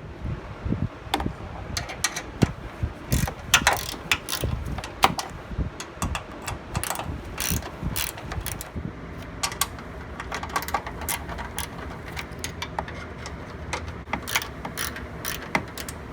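Hand ratchet wrench clicking in irregular runs as a bolt is turned, with a few sharper metallic clacks among the clicks.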